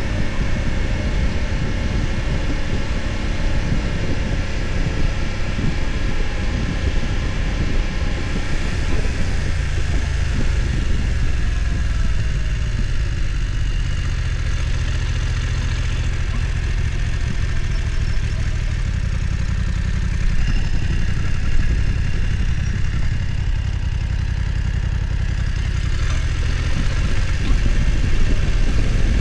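BMW F900 XR's parallel-twin engine running steadily at low revs while the motorcycle is ridden, with a low rumble of road and wind noise.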